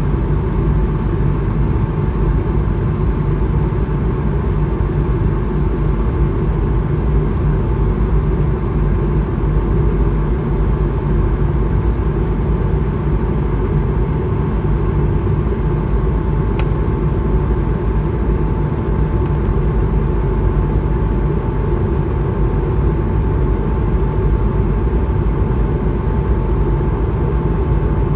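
Steady cabin noise of an Airbus A220-300 in flight: a dense, even low rumble of airflow and engines with a faint steady hum over it. There is one small click about two-thirds of the way through.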